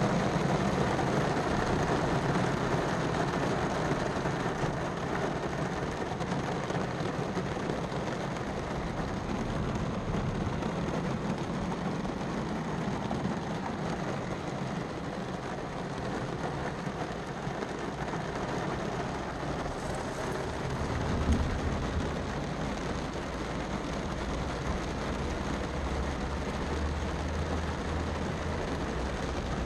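Heavy rain falling steadily, heard from inside a car and later from under a porch roof, with a single louder bump about two-thirds of the way through.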